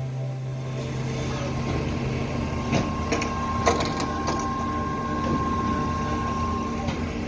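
Concrete power trowel's engine running steadily as it finishes a freshly poured ready-mix concrete slab. A few sharp clicks or knocks come between about three and four and a half seconds in.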